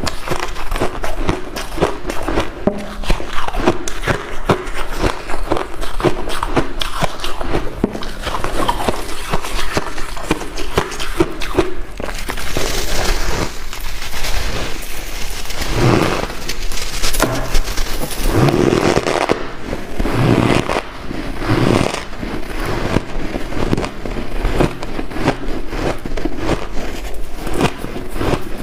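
White ice being crunched and chewed close to the microphone: a dense, continuous run of crackling crunches. Through the middle comes louder scraping and rustling, with a few heavier thuds.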